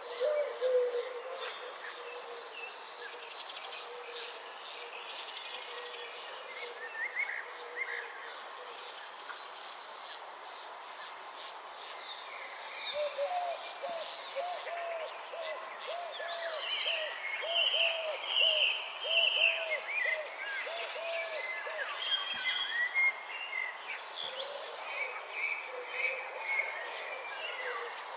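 Outdoor nature ambience of insects and birds. A steady high insect buzz, like crickets, stops about a third of the way in and starts again near the end. Meanwhile birds chirp, and a low call repeats about a dozen times in an even run in the middle.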